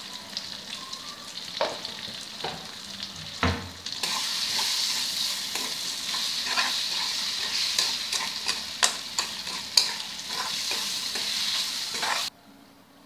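Quail pieces in masala sizzling as they fry in a metal kadai, stirred with a metal spatula that clicks and scrapes against the pan many times. The sizzle gets louder about four seconds in and cuts off suddenly near the end.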